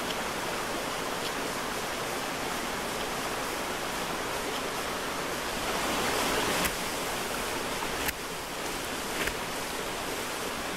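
Steady hiss of rain falling in the woods, with a few faint sharp clicks and a slightly louder swell about six seconds in.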